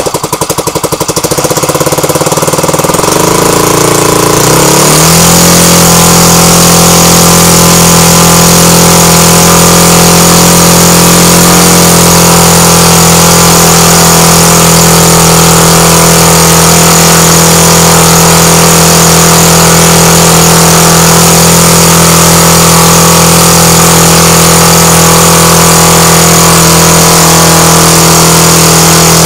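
Airpower A38 two-stroke gasoline model aircraft engine running with its propeller on its first test run. It idles slowly for the first few seconds, with each firing beat heard separately. About five seconds in it speeds up and then holds a steady high-speed run.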